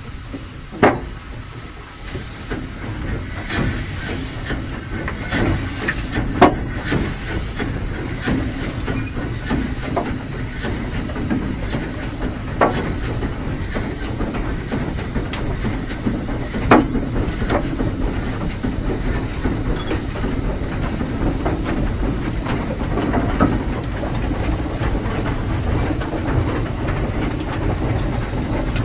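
Heisler geared steam locomotive running, heard from the cab: a steady hiss of steam and running noise that builds over the first few seconds as it gets under way, then holds. Sharp metallic clanks cut through about a second in, again around six seconds and again around seventeen seconds.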